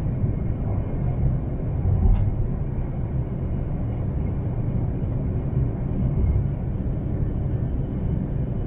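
Steady running rumble of an E3 series Shinkansen train heard from inside the passenger cabin, with a brief click about two seconds in.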